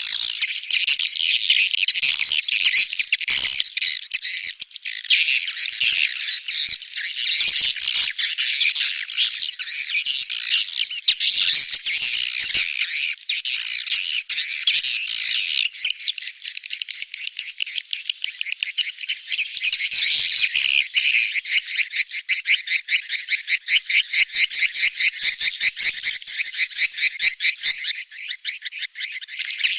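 Dense, high-pitched twittering of many edible-nest swiftlets, from a swiftlet mating-call ('birahi') lure track played to draw the birds into nesting houses. Past the middle it turns into a fast, even run of sharp clicks.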